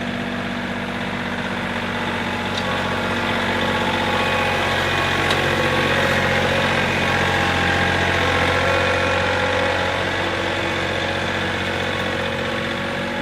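Tractor engine running steadily, growing slightly louder through the middle, as the tractor pulls a three-point landscape rake.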